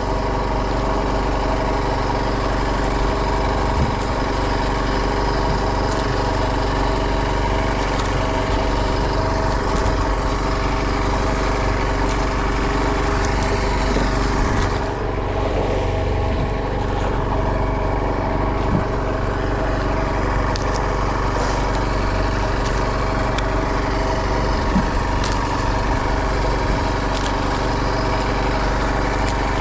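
Boat engine running steadily at a constant speed, with an even hum of overtones.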